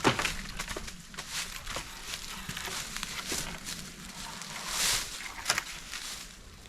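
Irregular rustling and crackling with sharp snaps, like brush or boughs being handled and broken, with a louder rustle about five seconds in.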